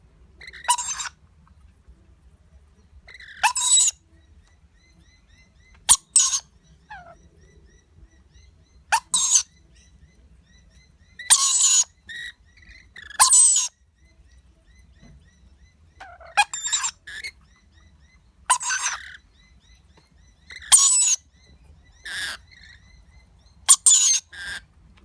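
Rainbow lorikeets giving short, harsh screeching calls, about ten of them spaced every two to three seconds, with faint chirping in between.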